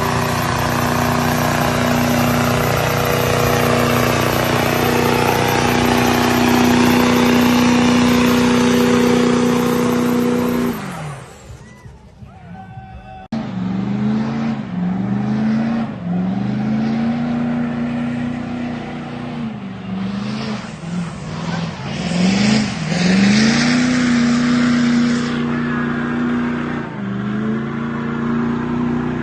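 Diesel pickup truck engines at high revs. For about the first ten seconds one engine holds a steady high-rev note, then drops away. Another engine then revs up again and again in rising sweeps before holding high revs, dipping, and climbing once more near the end.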